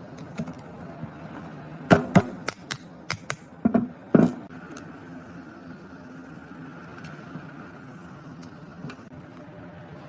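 A quick run of about ten sharp knocks and clicks, hard objects striking, bunched between about two and four seconds in, over a steady low hum.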